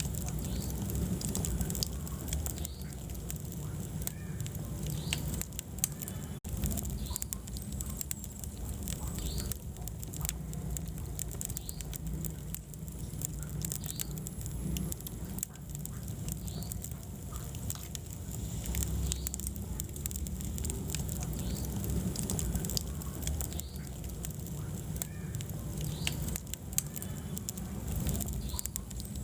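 Wood fire burning in a fireplace, crackling with frequent sharp pops over a low, steady rumble of the flames.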